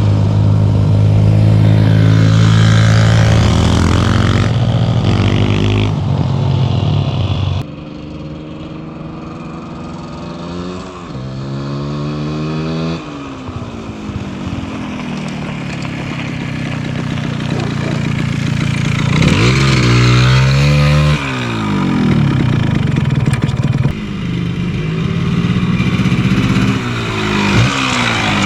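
1974 Yamaha DT100 Enduro's two-stroke single-cylinder engine running on a ride, its pitch rising and falling over and over as it revs up and drops through gear changes. About eight seconds in, the sound drops suddenly.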